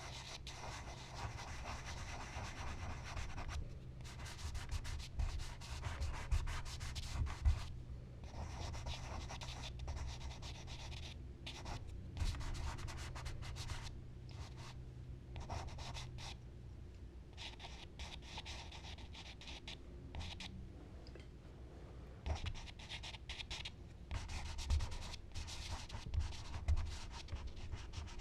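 Charcoal and blending tools rubbing and scratching across paper in irregular strokes with short pauses between them. A low steady hum runs underneath until about halfway through.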